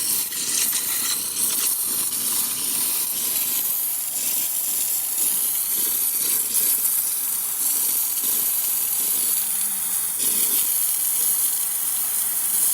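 La Pavoni lever espresso machine's steam wand hissing steadily, releasing steam once the boiler has built up pressure.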